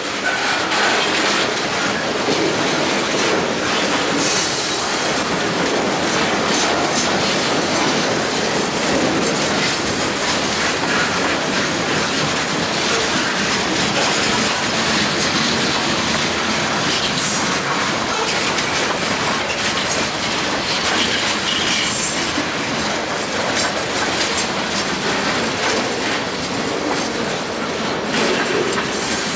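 Freight cars rolling past close by: the steady rumble and clatter of steel wheels over the rail, with brief high wheel squeals a few times.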